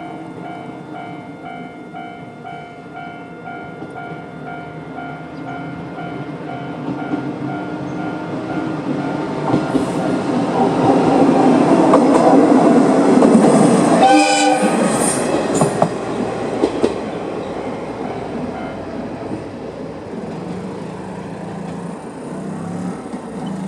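Level-crossing alarm ringing with an old JNR-style bell in a steady repeating ding. A WKT-500 diesel railcar approaches and rumbles over the crossing, loudest about 12 to 14 seconds in, with a brief horn-like tone about 14 seconds in. The train's sound then fades as it moves away.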